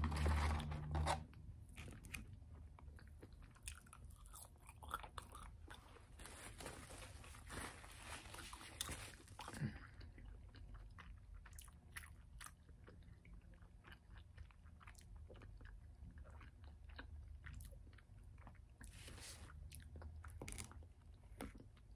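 Close-up mouth sounds of someone chewing and crunching food, with many small sharp crunches and wet clicks. Partway through there is a longer stretch of rustling.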